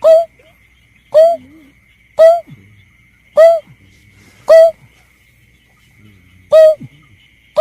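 Berkik (belkek) bird lure call: short, sharp single notes about once a second, six in all, each rising then dropping in pitch, with a gap of about two seconds near the end. A faint steady high whine runs underneath.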